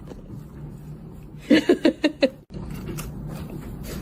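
A cat giving four quick, short meows over a low background hum.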